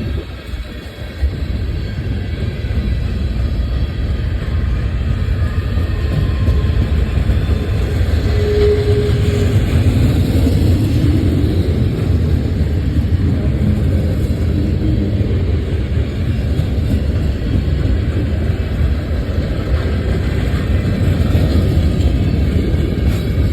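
Train passing, with a steady low rumble.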